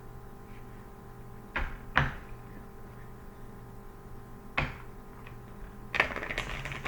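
Tarot cards being shuffled by hand: a few sharp taps and slaps of the deck, then a quick flurry of cards riffling near the end. A steady low electrical hum runs underneath.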